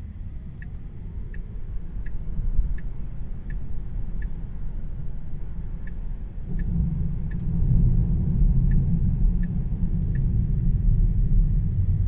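Inside the cabin of a moving Tesla Model 3: a low road and tyre rumble that grows louder about six and a half seconds in, with a turn-signal indicator ticking about three times every two seconds.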